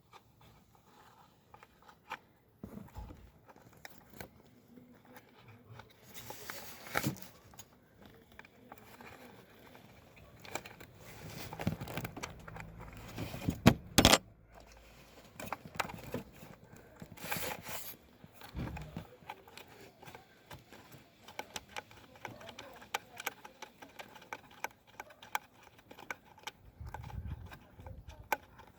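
Hands and tools working on a car's turbo vacuum solenoid valve and its fittings: irregular clicks, rustling and scraping of plastic and metal parts, with one sharp click about 14 seconds in.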